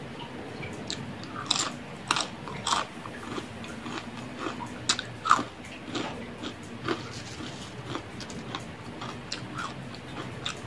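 Close-up chewing of crispy fried food, with sharp, irregular crunches, loudest in a cluster around two seconds in and again around five seconds in.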